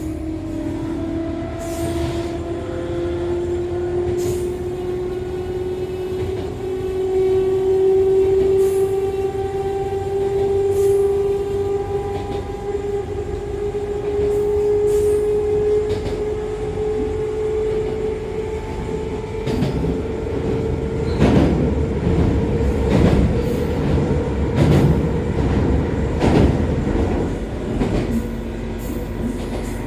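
Train running, heard from inside an Echizen Railway MC6101-series electric car with MT54 DC series-wound traction motors: the motor and gear whine rises steadily in pitch as the train gathers speed, then holds steady. Over a steady running rumble, sharp wheel-on-rail-joint clicks come about every second and a half in the latter half.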